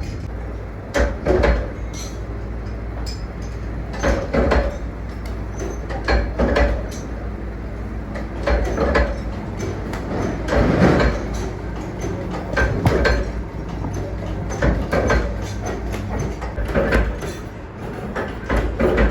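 Workshop machinery with a steady low hum, and a clattering knock about every two seconds, often doubled.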